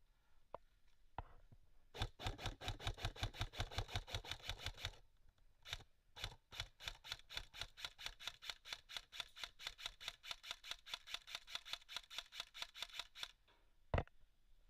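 Airsoft gun firing on full auto: a rapid, even burst of about three seconds, two single shots, then a longer burst of about seven seconds, and one louder single shot near the end.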